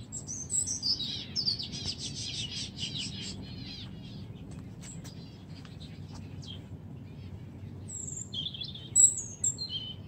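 Small birds singing: a run of high falling notes and a fast trill in the first few seconds, then sharp high chirps near the end, the loudest about nine seconds in.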